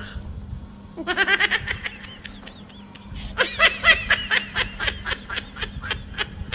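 Baby giggling in two runs of quick, high-pitched laughter: a short one about a second in, and a longer one from about three and a half seconds.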